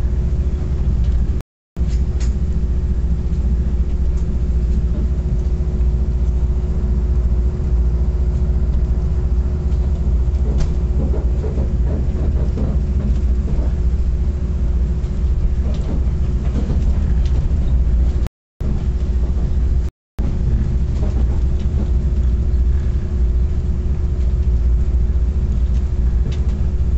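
Passenger train running through the canyon, heard from inside the carriage: a steady, loud low rumble with a constant hum and a few faint clicks. The sound cuts out briefly three times: near the start, and twice about two-thirds of the way through.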